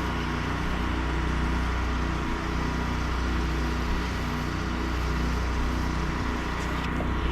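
Small gasoline engine of a pressure-washing rig running steadily at constant speed, with a continuous hiss over it.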